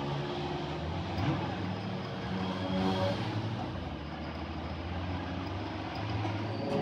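A motor vehicle engine running, its pitch rising and falling slightly.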